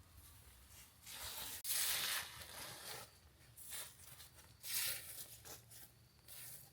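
Rustling, tearing noises in about five short bursts, the loudest about two seconds in.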